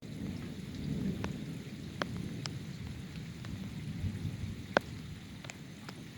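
Rain during a thunderstorm, with a low rolling rumble of thunder and a few scattered sharp ticks of heavy drops striking a hard surface close by, the loudest about three quarters of the way through.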